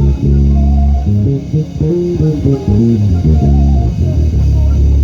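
Bass guitar playing a busy line of low plucked notes that change every fraction of a second, within a piece of music.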